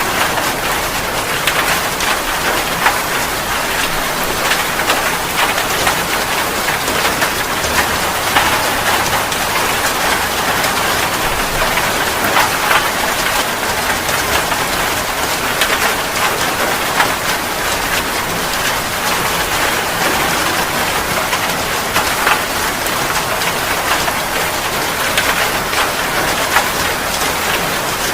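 Steady rain falling: a dense, even hiss of rainfall with many scattered sharper taps of individual drops striking a surface.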